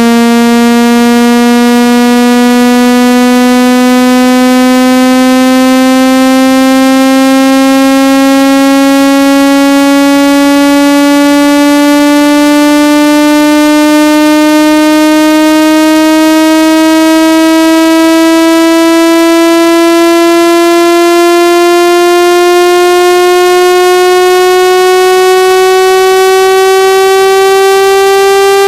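A loud synthesized buzzy tone with many overtones, gliding slowly and steadily upward in pitch. It is a water-eject sound, played through a phone speaker to shake out water that has got inside.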